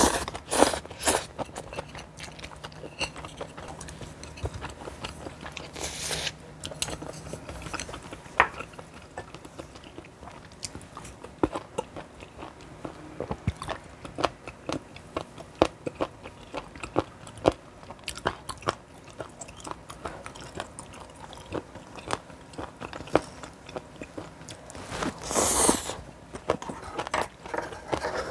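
Close-miked mukbang eating: chewing and crunching of food with many small mouth clicks, broken by a few louder noisy bursts, the biggest one near the end.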